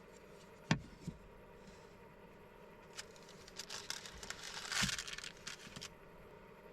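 A sharp knock, then rustling and crinkling, loudest about five seconds in, as of things being handled in a small enclosed space.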